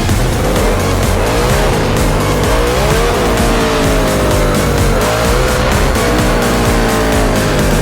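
Motorcycle engine revving, its pitch climbing about three seconds in and then slowly falling as the throttle eases, with background music that has a steady beat.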